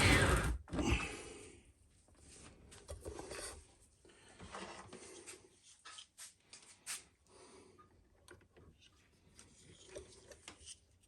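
A loud rushing noise cuts off about half a second in. Scattered light clicks and knocks follow from hands handling gear at the electrolysis bath.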